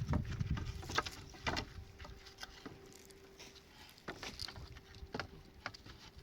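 Scattered light clicks and knocks at an irregular pace, over a faint steady hum.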